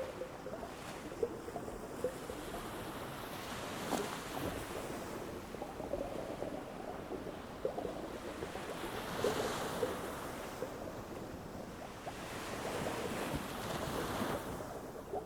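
Ocean waves washing onto a beach: a steady rushing, swelling louder about nine seconds in and again near the end.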